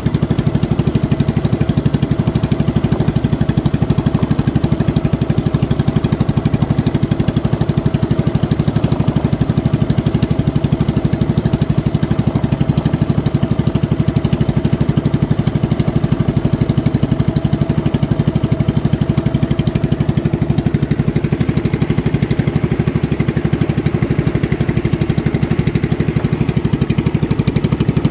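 Small boat engine running steadily at a constant pace, with a rapid even beat of firing strokes.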